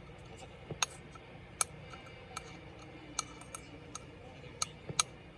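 Sharp clicks and taps of small parts and tools at irregular intervals, about nine in all, as a Dell Latitude 3301 laptop is taken apart.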